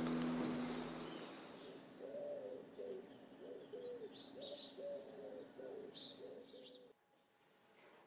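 Birds calling: a low call repeated in short phrases, with a few higher chirps above it, cut off suddenly about seven seconds in.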